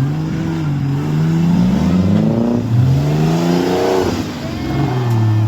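Off-road 4x4's engine revving under load, its pitch climbing in two long surges and then holding steady.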